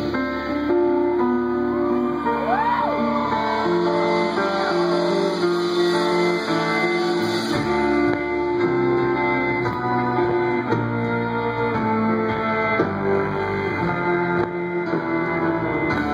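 Live folk-rock band playing an instrumental passage with no singing: guitars over chords that are held and change every second or two.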